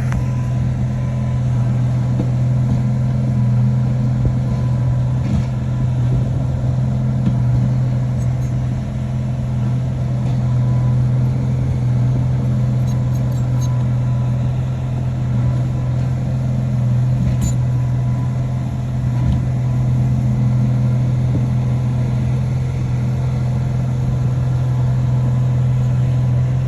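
Heavy earthmoving machine's diesel engine running steadily at a constant speed, a loud low drone that barely changes.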